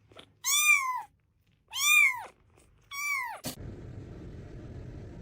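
Domestic cat meowing loudly three times, about a second apart, each call rising then falling in pitch. A click follows about three and a half seconds in, then a steady background hiss.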